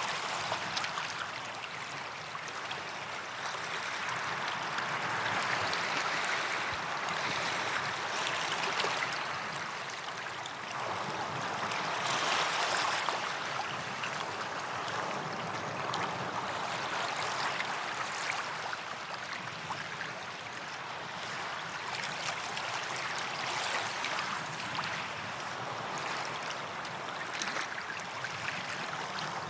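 Sea waves washing onto a sandy beach, a steady wash that swells and eases every few seconds.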